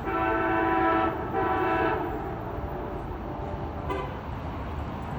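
Locomotive horn sounding: a blast that ends about a second in, then a shorter blast, followed by the steady low rumble of the train.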